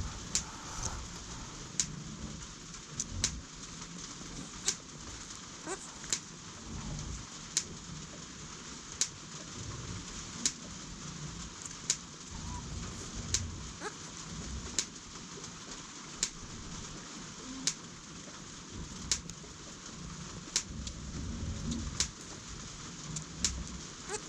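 Sharp, short ticks repeating at an even pace, about one every second and a half, over a steady hiss and low rumbling.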